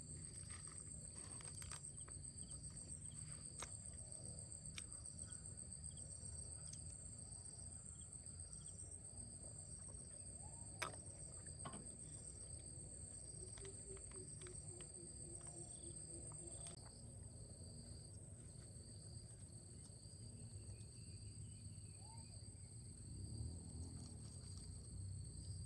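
Insects chirping in a steady high-pitched chorus, faint, with a few small clicks and one sharp click about halfway through.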